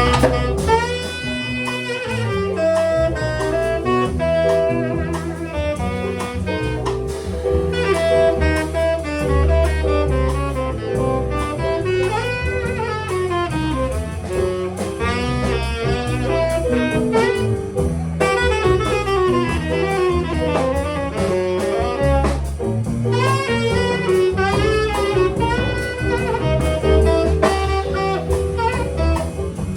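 Jazz instrumental passage: a saxophone solo playing running melodic lines over drum kit and bass.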